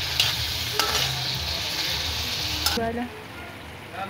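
Mutton liver pieces sizzling in hot oil in an iron wok while a metal spatula stirs them, with a few sharp clicks of the spatula against the pan. The sizzle cuts off suddenly a little under three seconds in.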